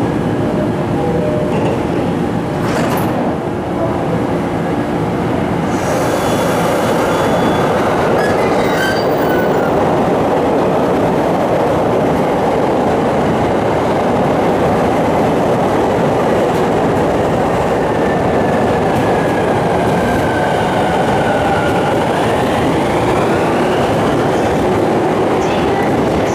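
Electric commuter train running alongside the platform: a steady rumble of wheels on the rails, with a motor whine that drops and then climbs again near the end.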